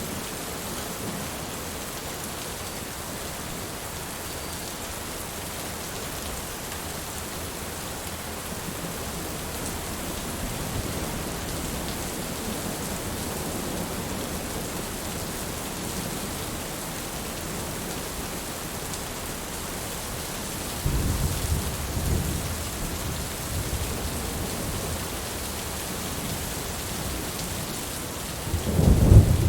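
Steady rain falling, with thunder rumbling low: a softer roll starts about two-thirds of the way in and a louder one comes near the end.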